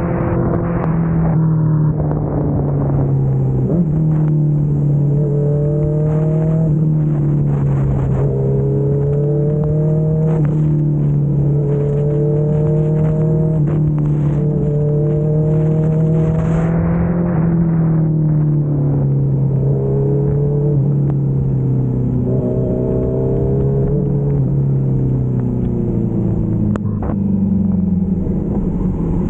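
Kawasaki Z900 inline-four motorcycle engine running at a steady cruise under a constant rush of wind and road noise. Its pitch sags and rises a few times with the throttle.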